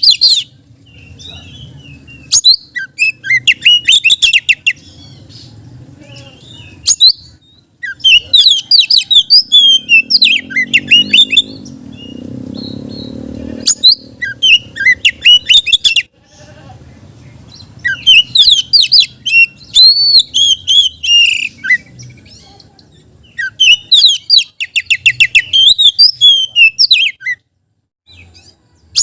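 Oriental magpie-robin singing loud, rapid phrases of chirps, whistles and trills, in five bursts of a few seconds each with short pauses between.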